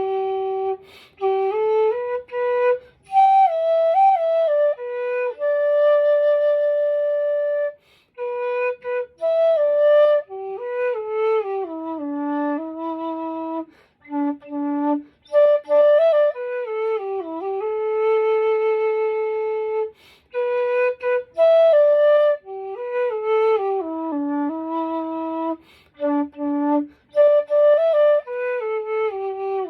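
Nanxiao (southern xiao) in G, an end-blown bamboo flute, played solo and unaccompanied: a slow melody of long held notes with slides and bends between them, broken by short pauses for breath.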